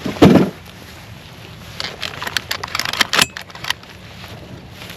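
A single loud thump, then about two seconds of quick, scattered clicks and rattles from gear being handled.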